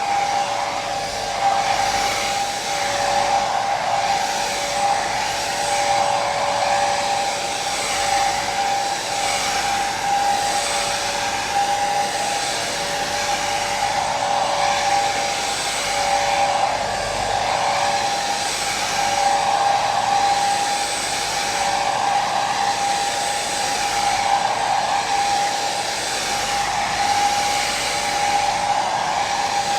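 Electric hair dryer running steadily: a continuous fan-and-air hiss with a steady high motor whine, swelling and easing slightly every couple of seconds.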